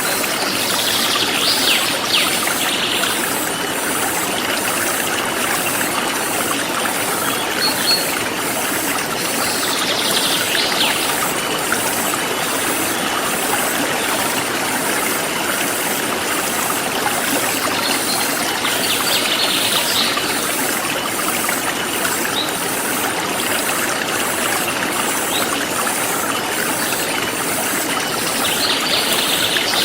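Forest stream flowing with a steady rush of water, under a high insect chirr that pulses evenly. A bird calls in a short burst of song about every nine seconds, with a few single chirps in between.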